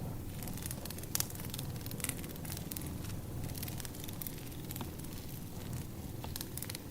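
Firewood burning: steady crackling with scattered sharp pops, the loudest about a second in, over a low steady rumble.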